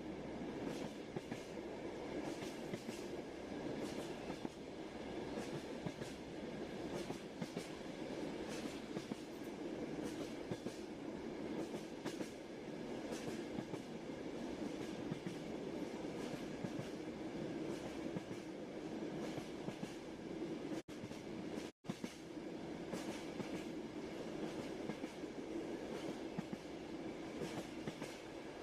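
Inside a moving train carriage: a steady rumble of the wheels on the track, with frequent light clicks and rattles. The sound drops out for a moment about three-quarters of the way through, then carries on.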